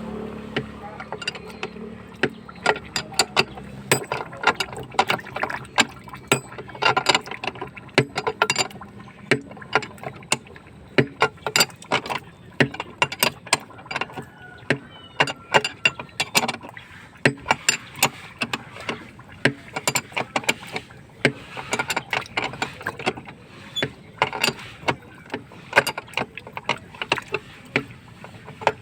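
Hand tools working on a plumbing leak repair: irregular sharp taps, knocks and clinks, often a few a second, with a low hum fading out over the first few seconds.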